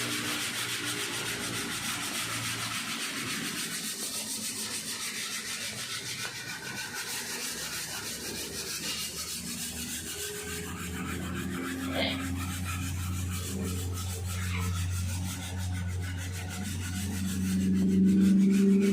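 Hand sanding of hardened body filler on a car panel: a continuous scratchy rubbing as the thick spots are taken down. From about ten seconds in, a low steady hum joins it and grows louder near the end.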